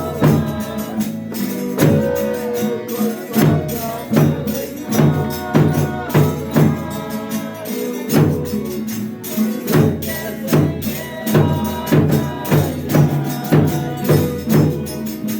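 Folia de Reis folk music: tambourine beating a steady pulse of about two strokes a second, with strummed viola and singing voices.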